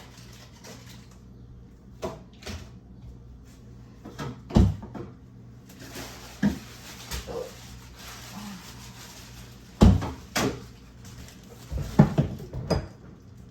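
Containers and food packages being handled while a refrigerator is cleared out: a string of separate knocks and clunks, about eight in all and spaced unevenly, plus a soft hiss for a few seconds in the middle.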